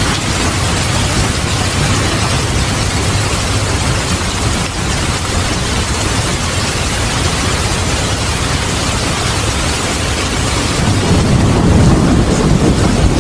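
Heavy, steady rain with thunder rumbling under it. The rumble swells about eleven seconds in.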